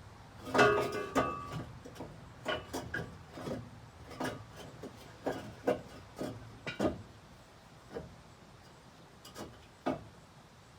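Irregular metal knocks and scrapes from the old, rusted exhaust pipe being worked loose and pulled out from under a pickup truck. A louder clank with a short metallic ring comes about half a second in, and the knocks thin out towards the end.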